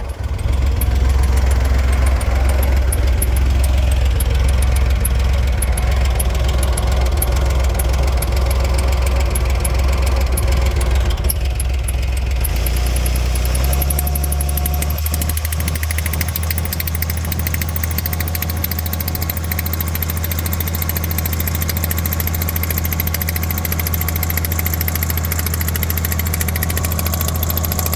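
Chevrolet Corvair air-cooled flat-six running under load against the Powerglide transmission in Drive, with a fast, even chattering mixed into its hum. This is the mystery chattering/hammering noise, whose cause is not yet known. The engine note drops slightly and changes about 12 to 14 seconds in.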